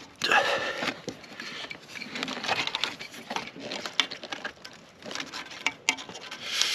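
Hands refitting an EGR valve in a car's engine bay: scattered clicks, taps and knocks of metal and plastic parts with some rustling, and a longer rustle or scrape near the end.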